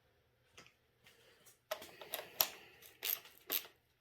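Irregular clicks and light clatter of small tools and parts being handled on a workbench, a few sharp knocks, the loudest about halfway through.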